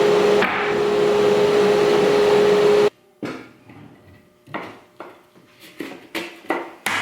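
A power tool runs steadily with a constant whine, then stops suddenly about three seconds in. An uneven string of sharp knocks on wood follows, roughly two a second, each ringing briefly.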